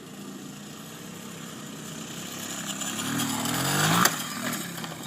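Small dirt bike engine running, then revving up with its pitch and loudness rising to a peak about four seconds in, where it drops off suddenly.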